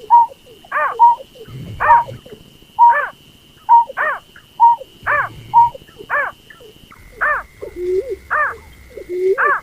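Berkik (snipe) lure call: loud calls repeated about once a second, each an arched note alternating with short, steady piping notes, with lower hooked notes joining about seven seconds in. A thin, steady whine runs underneath and drops lower in pitch at the same point.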